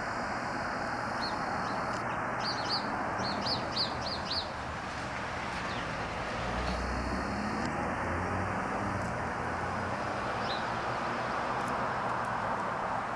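Small songbird chirping: a quick run of about eight short, high chirps a couple of seconds in, and one more chirp later, over a steady background rush.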